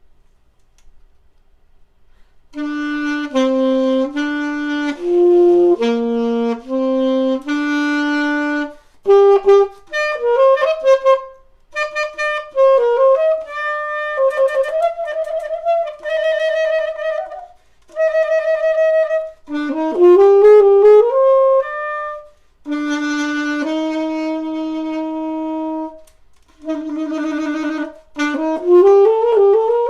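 A single wind instrument playing a melody alone in separate phrases of held and quick notes, starting about two and a half seconds in. Twice a fast run climbs upward, once a little past the middle and once near the end.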